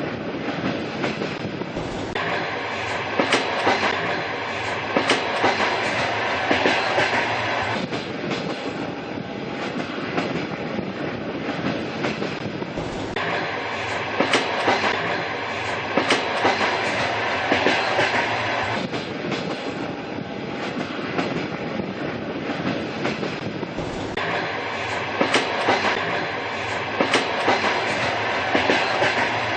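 A train running on rails: steady rumble with the rhythmic clickety-clack of wheels over rail joints. A brighter, louder rattling stretch comes back about every eleven seconds.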